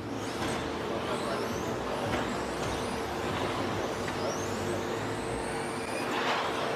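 Electric RC stadium trucks with 13.5-turn brushless motors running on a dirt track: high-pitched motor whines rising and falling as they speed up and slow down, over a steady hum.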